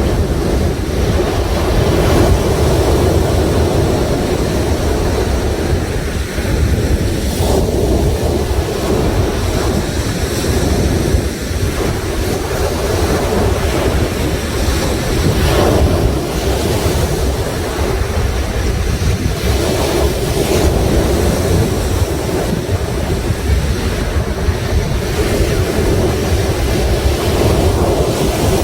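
Sea waves surging and washing onto the shore in a continuous rush, with a few stronger breaks, and wind buffeting the microphone as a low rumble.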